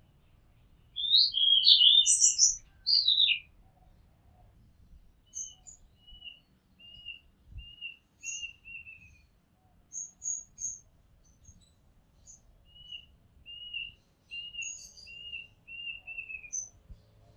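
Oriental magpie robin singing: a loud burst of varied, rapidly rising and falling whistled notes about a second in, then a series of short repeated notes with higher chips between them.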